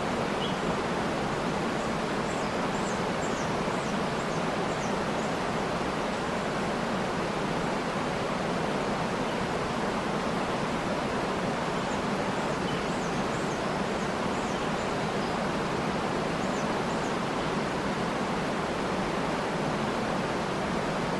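Waterfall running steadily, with faint high bird chirps in two short spells, a couple of seconds in and again around the middle.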